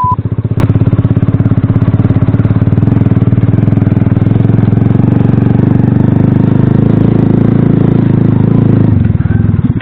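Single-cylinder four-stroke engine of an Alpha moped running steadily with an even pulsing beat, easing off about nine seconds in.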